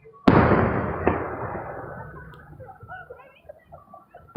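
Aerial fireworks exploding: a loud boom about a quarter second in that rumbles away over the next few seconds, a second sharper crack about a second in, and another boom right at the end.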